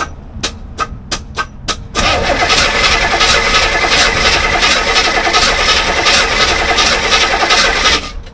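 Chevrolet 350 V8 in a C4 Corvette being cranked by its starter without firing. A quick run of sharp clacks is followed by about six seconds of loud, steady cranking that stops suddenly near the end. The owner takes the no-start for distributor timing 180 degrees out.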